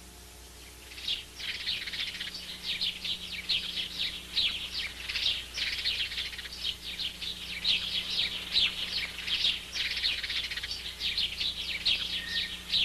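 Many small birds chirping in a dense, continuous twitter of quick, high chirps, starting about a second in.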